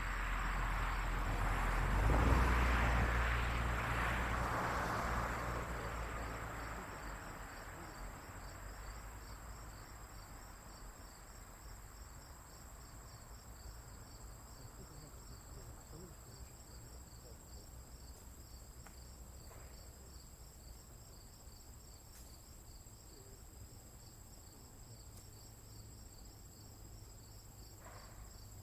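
Crickets and other insects calling steadily, a fast even pulsing chirp with a continuous high trill above it. During the first several seconds a rushing noise with a low rumble swells to a peak about two seconds in and then fades away, louder than the insects.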